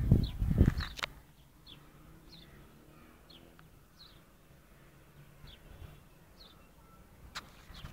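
A small bird calling over and over, short high chirps that fall in pitch, roughly one every three quarters of a second. A loud low rumble covers the first second.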